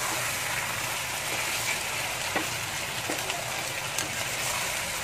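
Chicken frying in a pan of sweet soy sauce, a steady sizzling hiss, with a few light knocks of a utensil against the pan about two, three and four seconds in.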